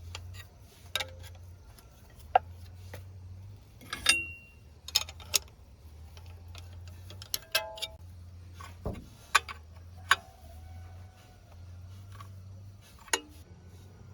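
Irregular sharp metallic clinks and taps, about a dozen, some ringing briefly, from hand tools and metal parts being handled during truck repair work, over a steady low hum.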